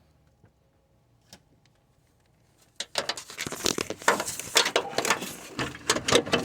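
Quick clicks, knocks and scraping of the radiator fan assembly's parts being handled, lined up and pushed into place, starting about three seconds in.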